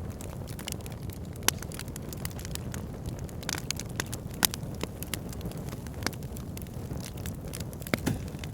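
Backyard fire pit burning, crackling with frequent irregular sharp pops over a steady low rush of flame; a few louder pops stand out, about one and a half, four and a half and eight seconds in.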